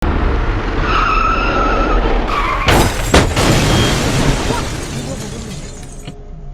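Vehicle tyres screeching for about a second and a half, then a sudden crash with two heavy impacts about three seconds in, followed by clattering road noise that fades away.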